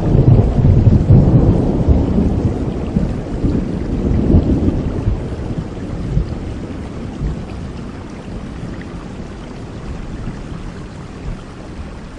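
Rolling thunder rumbling loudest in the first few seconds and fading away, over steady heavy rain.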